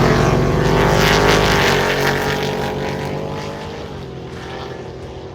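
Drag racing car engine at full throttle, accelerating away down the strip and fading with distance; its pitch steps down at a gear change about four seconds in.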